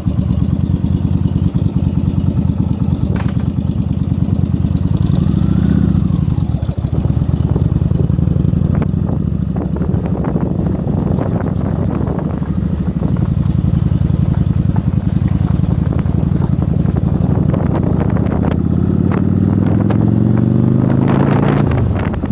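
Yamaha Virago 1100's air-cooled V-twin engine running at idle just after being started, with one brief rev about five seconds in. The revs climb steadily near the end, then drop.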